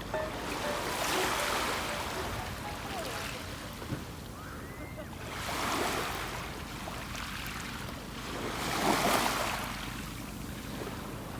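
Sea waves washing in, the surge swelling three times, loudest near the end.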